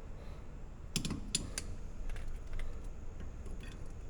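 Small metallic clicks and taps of pliers working a brake pad retaining clip into position on a disc brake caliper. A cluster of clicks comes about a second in, with a few fainter ones after.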